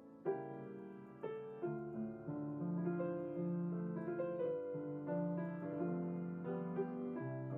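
Piano playing a gentle instrumental piece, single notes struck over held chords.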